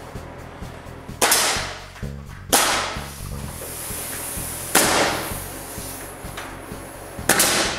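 Four sharp, separate bangs, a second or two apart, from nailing while framing a wall of wooden studs, over background music.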